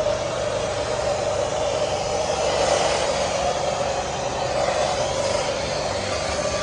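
Car-cleaning equipment running with a steady rushing noise and a constant hum.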